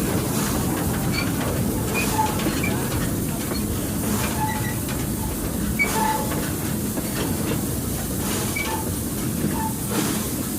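Goods wagon rolling along the track on a train ride: a steady rumble of wheels and running gear, with light clicking and a few short squeaks.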